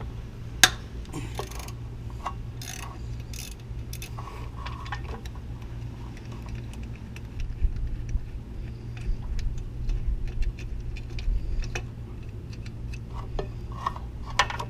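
Ratchet wrench with a 15 mm socket clicking in short runs, with metal tools clinking, as the timing belt tensioner bolt is loosened; a sharp click comes about half a second in. A steady low hum runs underneath.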